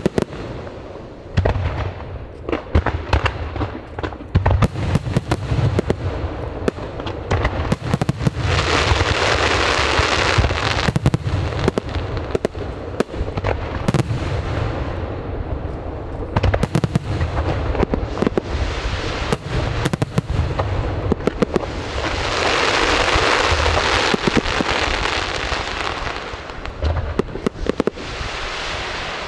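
Aerial fireworks display: many sharp bangs and booms going off in quick, irregular succession, with two longer stretches of dense, continuous crackling, about a third of the way in and again about three quarters of the way through.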